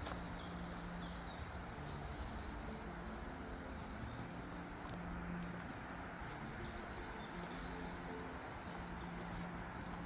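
Woodland ambience: faint bird chirps over a steady background rumble and hiss.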